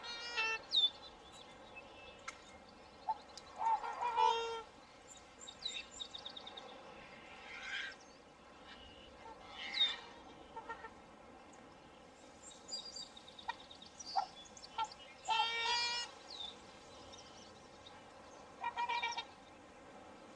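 Swans calling: about six short honking calls at irregular intervals, each under a second, with small birds chirping in between over a faint steady background hiss.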